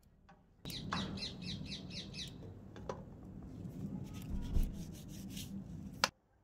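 A bird calling outdoors in a rapid run of about eight harsh chirps, about five a second, over a steady low hum. Further scattered chirps follow, and there is one sharp click near the end.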